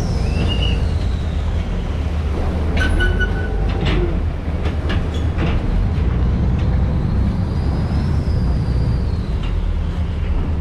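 A river boat's engine running steadily, a loud low rumble, with a few short clicks and knocks about three to five seconds in.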